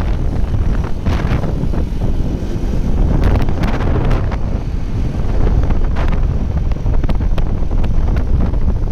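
Wind buffeting the microphone on a moving bike: a loud, steady low rumble with scattered crackles and knocks.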